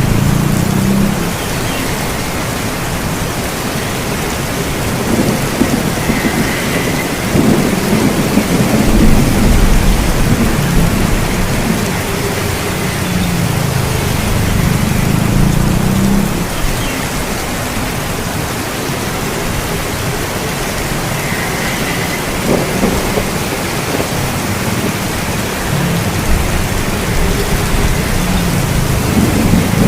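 Steady heavy rain with low rolling rumbles of thunder that swell and fade several times, the strongest about nine seconds in.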